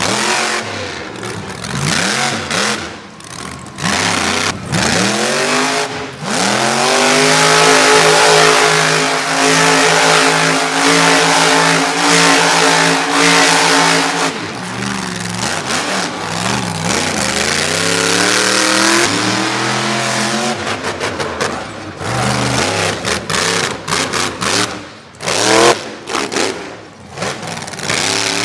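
Monster truck engine revving hard: it climbs steeply to a high pitch held for several seconds, drops away, then surges up and down in shorter revs.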